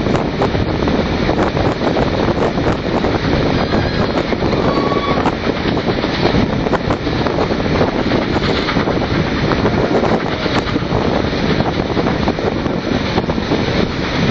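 Steady rumbling running noise of a moving steam-hauled train heard on board, with wind buffeting the microphone.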